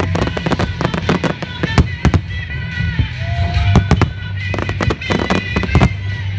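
Aerial firework shells bursting in quick succession, a dense run of sharp bangs and crackles, over music with a steady low bass.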